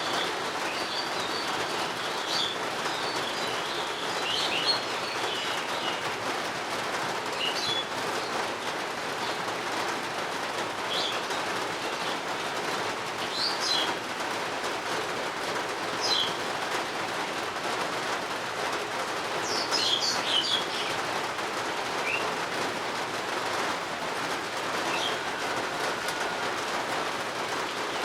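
Steady rain falling, with birds chirping over it in short high calls every few seconds, busiest in the first few seconds and again about twenty seconds in.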